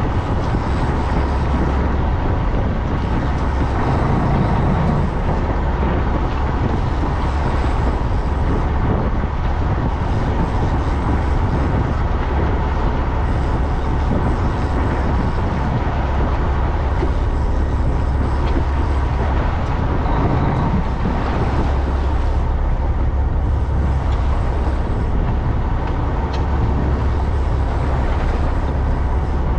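Fishing boat's engine running with a steady low drone, under a constant rush of wind and water.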